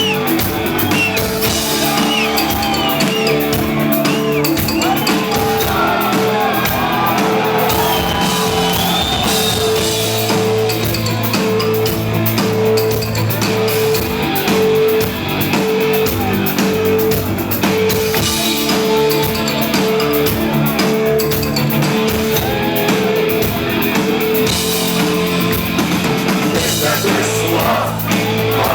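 Live rock band playing loudly, with drums and guitars, while a crowd sings and shouts along.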